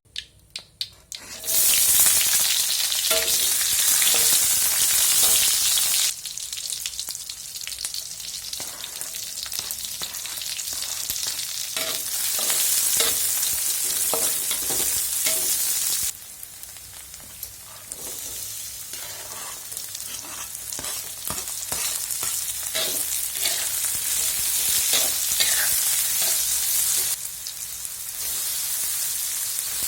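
Squid stir-frying in a hot pan: a loud, steady sizzle that starts about a second and a half in after a few clicks, with a spatula stirring and clinking against the pan. The sizzle changes level abruptly several times.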